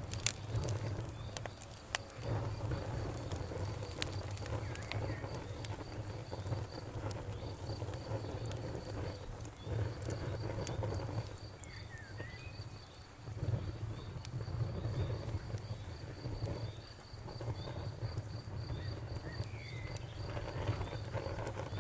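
Campfire crackling, with irregular sharp pops over a low steady rumble of burning. Insects chirp in a steady high pulse throughout, and a bird calls briefly a couple of times.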